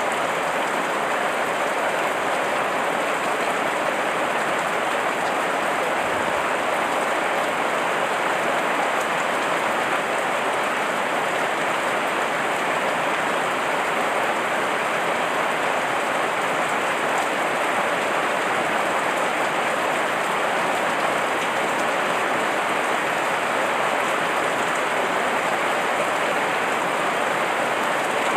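Heavy rain falling and pattering on leaves and surfaces: a steady, dense hiss that does not change.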